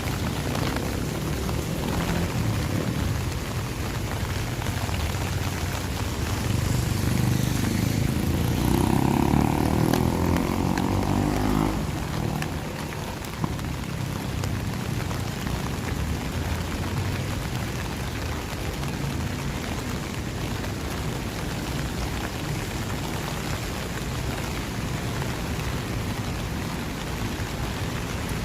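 Steady rain falling on a city street. A vehicle passes on the wet road, building up and loudest from about a quarter to nearly halfway through, then fading. There is a single sharp tap shortly after.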